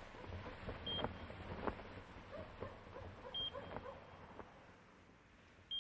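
Hospital patient monitor beeping, a short high beep about every two and a half seconds, three times. Soft clicks and knocks come in between, the loudest a little under two seconds in.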